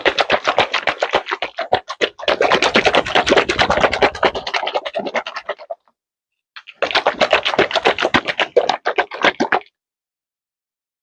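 A container of homemade blue cheese dressing (olive oil, red wine vinegar and blue cheese) being shaken hard by hand to mix it, in two bouts of fast rapid rattling shakes with a short pause about six seconds in.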